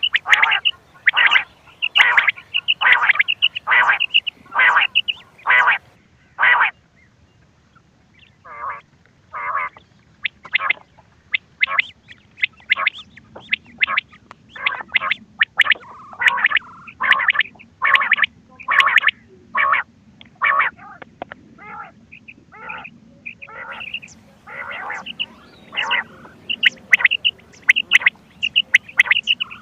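Recorded quail calls from a hunting lure tape: short, sharp call notes repeated about twice a second, with a short break about seven seconds in before the calling resumes.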